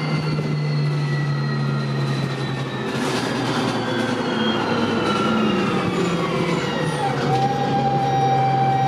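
Dennis Dart bus under way, its engine running with a drivetrain whine that falls steadily in pitch as the bus slows, then settles into a steady whine about seven seconds in.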